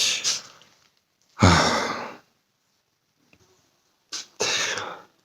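A man's breathing close to the microphone: a heavy exhale, like a sigh, about a second and a half in, and another shorter breath near the end, with a faint click just before it.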